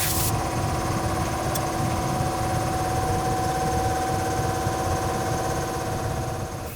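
An electric motor running steadily, a whine of several steady tones over a low rumble, fading out near the end.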